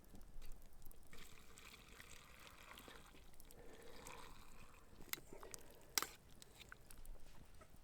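Faint trickle of water with a few light clicks and knocks, the sharpest about six seconds in.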